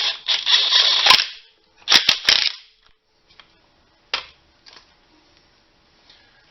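Impact wrench running bolts in, in two short hammering bursts, the first about a second long and the second shorter, followed by a single sharp knock about four seconds in.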